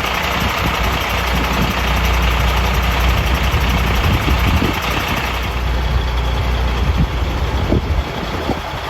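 Large truck engine idling with a steady deep rumble; the low rumble eases off about eight seconds in.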